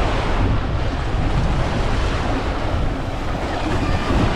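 Steady wind buffeting the microphone over the wash of waves on the shore.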